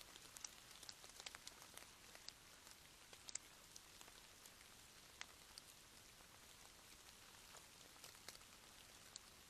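Faint rain: a soft steady hiss with scattered raindrops ticking sharply and irregularly, one louder drop about three seconds in.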